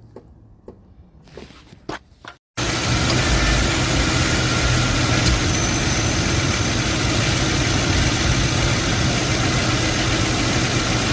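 Ford 4.6-litre V8 engine idling steadily, cutting in abruptly about two and a half seconds in after a few faint clicks.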